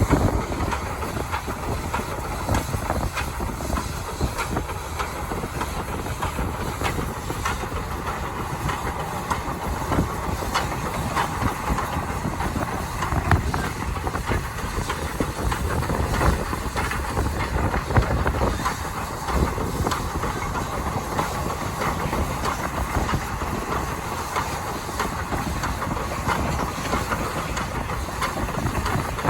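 SAR steam locomotive T251 running with its train: a steady hiss of steam over a low rumble, with frequent short clicks and clacks from the wheels and running gear.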